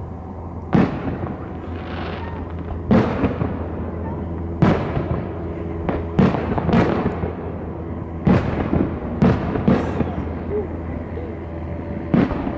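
Fireworks shells bursting, about nine sharp booms a second or two apart, some in quick pairs, each with a short rumbling tail.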